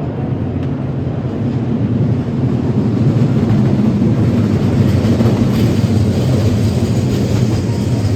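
A train running past, a steady rumble of wheels on rail that grows louder about two to three seconds in and then holds.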